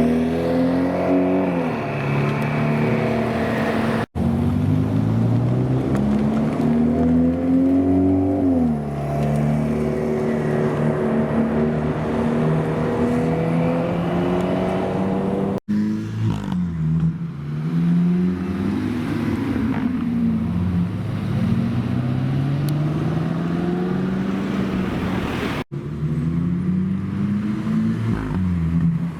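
Loud supercar engines revving and accelerating, their pitch climbing and then dropping again and again. The sound breaks off briefly three times where the clips are cut.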